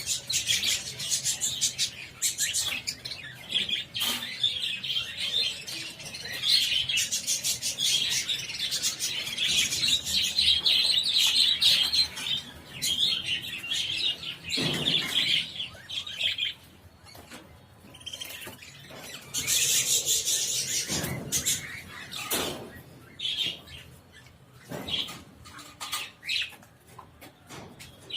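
A flock of budgerigars chattering and chirping, dense and continuous for about the first half, then thinning to sparser calls.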